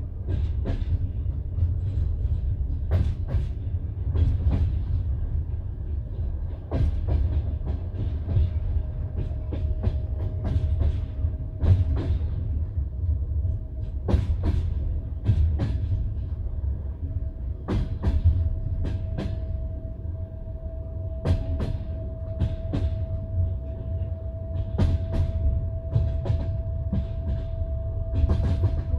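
Passenger train carriage wheels clacking over rail joints, heard from inside the carriage: a steady low rumble with knocks in quick pairs as each bogie crosses a joint. A faint steady whine joins in about a third of the way through.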